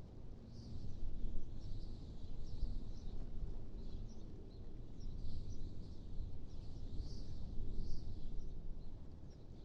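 Wind blowing in gusts, a low rumble that swells and eases every few seconds, with small birds chirping faintly throughout.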